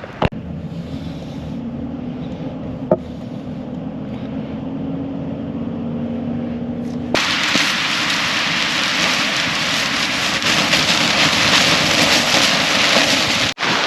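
A low steady hum with two sharp clicks. About seven seconds in, it cuts suddenly to loud wind and light rain rushing and crackling against a tarp shelter.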